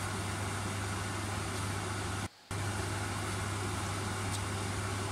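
A steady hiss of onion-garlic masala frying in oil in a brass kadhai, over a low steady hum. The sound cuts out for a moment a little over two seconds in.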